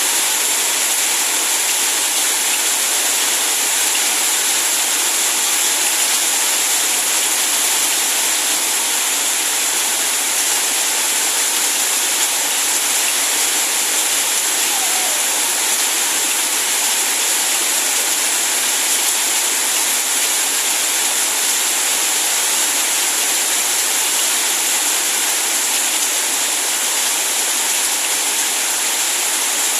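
Heavy rain falling: a steady, loud hiss that does not let up.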